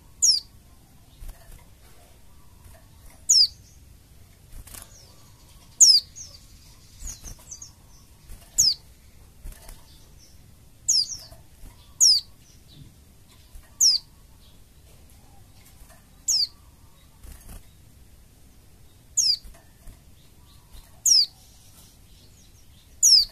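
White-eye (pleci) calling: a thin, high note that slides down in pitch, repeated about eleven times at intervals of one to three seconds, with faint short chirps in between. It is a lure call used to provoke a kept white-eye into singing.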